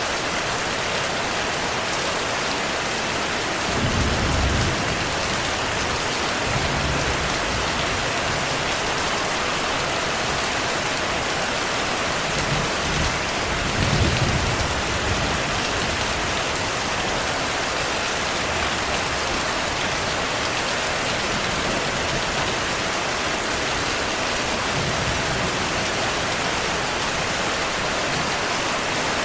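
Steady heavy rain, with short low rumbles of distant thunder about four seconds in and again around fourteen seconds.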